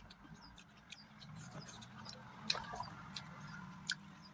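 Faint, scattered wet clicks and smacks of eating curry and rice, with a small flurry about two and a half seconds in and a sharper click near the end.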